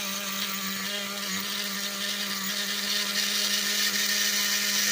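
Small nitro engine of a Traxxas Revo RC truck running at a steady speed, a buzzing hum that holds one pitch. It grows a little louder about three seconds in.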